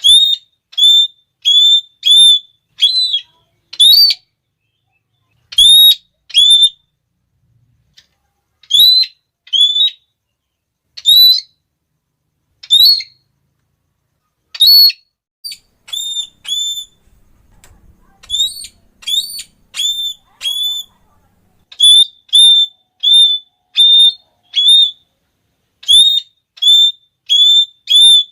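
Red-cheeked parrot calling a long series of short, shrill, high 'klee' notes, one to two a second, with a pause of a couple of seconds about a quarter of the way in and a softer, sparser stretch past the middle.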